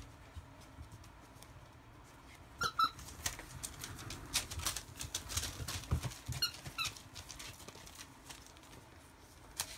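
Rough collie puppies squeaking: short high squeaks in quick pairs, once about two and a half seconds in and again about six and a half seconds in, among scattered light taps and scuffles.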